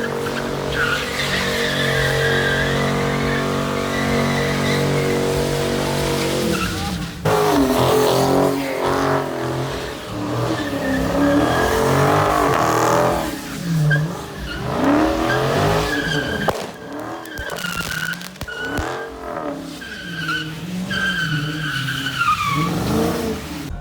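A car engine revs hard while its tires squeal in a burnout or donuts. The engine holds a steady high note at first. About seven seconds in it starts rising and falling over and over, with the tire squeal wavering above it.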